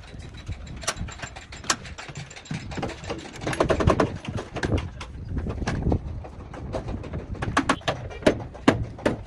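Irregular sharp knocks and clicks of workshop tool work, some coming in quick clusters.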